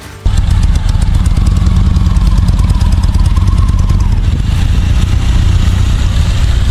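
Motorcycle engine running loud and close, cutting in abruptly just after the start.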